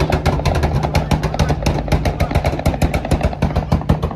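Vehicle engine running with a rapid, irregular string of sharp exhaust cracks and pops, several a second, over a steady low engine hum.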